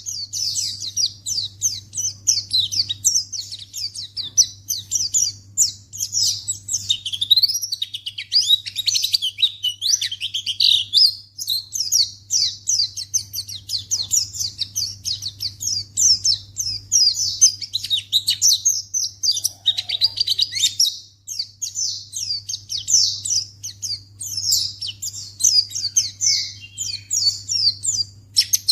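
White-eye (pleci) singing a fast, unbroken stream of high chirps and twittering trills, the provoking song used to lure other white-eyes into answering. A faint low steady hum runs underneath.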